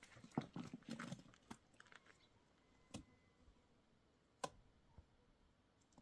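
Faint scattered clicks and knocks: a quick cluster of small taps in the first second and a half, then single sharp clicks near three seconds, four and a half seconds and five seconds.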